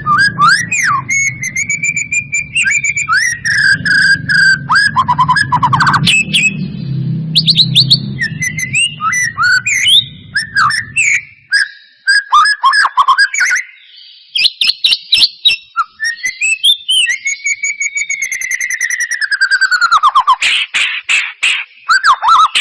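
White-rumped shama (murai batu) singing a loud, varied song of sliding whistles, rapid clicking runs and trills, used as a lure to stir caged shamas into song. A low hum underneath stops about halfway.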